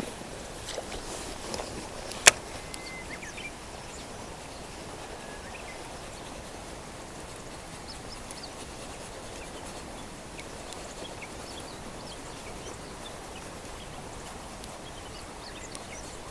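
Steady outdoor background noise with faint, scattered small-bird chirps, and one sharp click about two seconds in.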